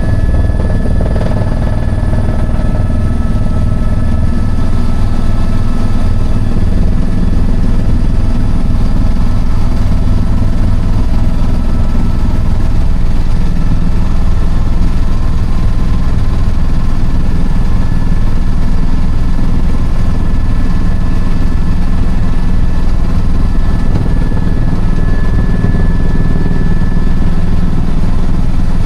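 Eurocopter EC-130 helicopter in flight: a steady, loud rumble of turbine engine and rotors, with a few thin high whines running over it.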